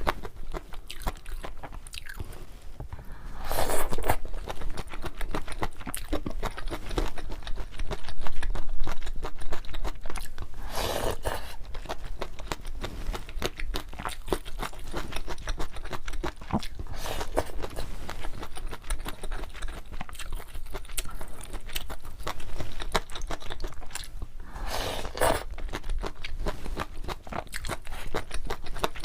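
Close-miked chewing and crunching of luosifen noodles with fried egg: steady small wet mouth clicks, with a few louder bursts several seconds apart.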